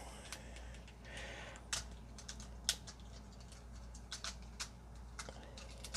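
Plastic parts of a Transformers Legacy United Sandstorm action figure clicking and scraping as they are handled and moved during its transformation, with scattered sharp clicks and a brief soft scrape about a second in.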